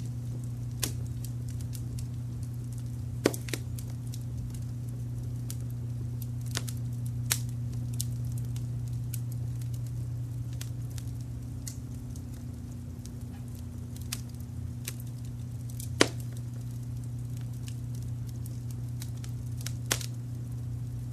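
Wood fire crackling, with scattered sharp pops that are loudest about three seconds in and again around sixteen seconds, over a steady low rumble of brown noise.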